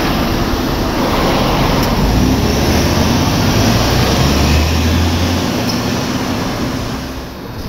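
Electric trains in a rail depot: a steady rushing noise with a low hum underneath, which strengthens about two seconds in and drops out about five and a half seconds in.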